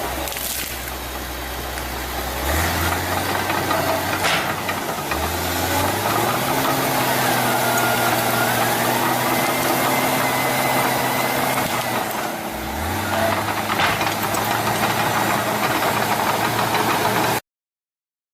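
Heavy machine's engine running, its pitch stepping up and down a few times, with two sharp knocks; the sound cuts off abruptly near the end.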